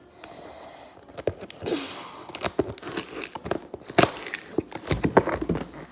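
Toy packaging being handled and pulled open: cardboard and plastic rustling and crinkling, with scattered clicks and crackles.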